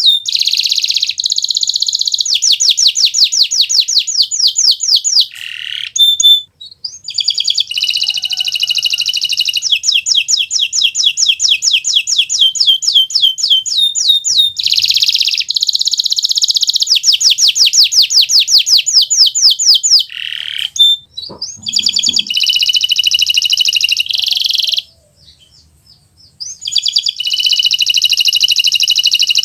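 Kenari Nusantara canary singing in full song: long, loud phrases of rapid trills and fast repeated notes, broken by short pauses and a brief silence about 25 seconds in.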